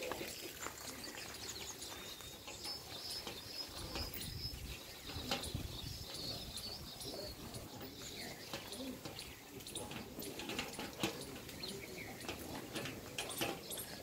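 Small birds chirping and twittering in the background, with scattered soft clicks and taps.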